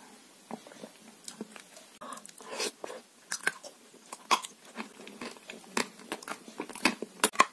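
A person chewing a mouthful of chocolate cream, with irregular short clicks and smacks of the mouth.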